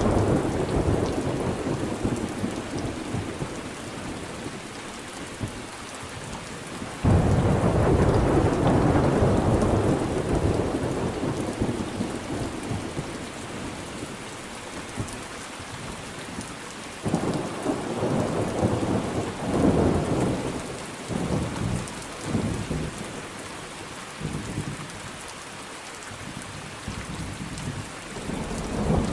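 Thunderstorm: steady rain falling under rolling thunder. A sudden thunderclap about seven seconds in rumbles away over several seconds, another series of rumbles comes a few seconds past the middle, and the thunder builds again at the end.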